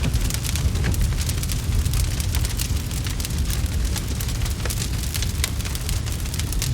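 Wood fire crackling with many quick, irregular pops and snaps over a steady low rumble.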